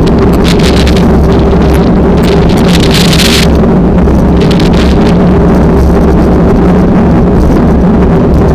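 Strong wind buffeting the microphone over a steady engine drone, loud and unbroken, with gusts flaring up now and then.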